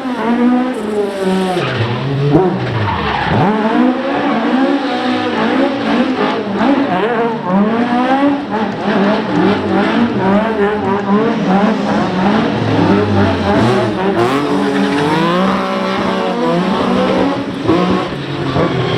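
Rally car engines revving hard, pitch rising and falling again and again as the cars accelerate and lift off, with tyres skidding and squealing.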